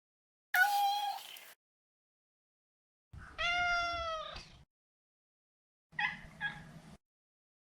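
Maine Coon cat meowing: three separate meows about two seconds apart, the middle one the longest and falling in pitch at its end, the last a short double mew.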